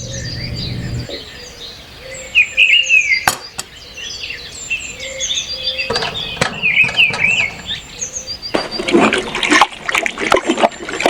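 Small birds chirping and twittering over and over, with a few sharp taps and a burst of rattling clatter over the last couple of seconds.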